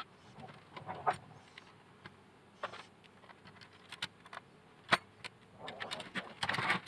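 Parts of a robot vacuum being handled and cleaned: scattered light clicks and knocks, with short scrubbing strokes and a longer stretch of scrubbing near the end.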